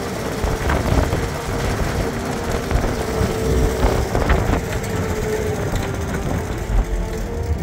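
1955 Land Rover Series I's four-cylinder petrol engine running steadily on the move, heard from the open cab with the windscreen folded down.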